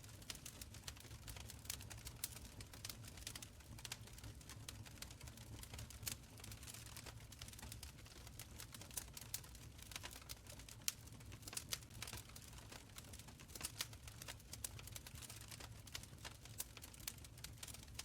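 Wood fire crackling in a stone fireplace: many small, irregular pops and snaps over a faint low rumble of flames.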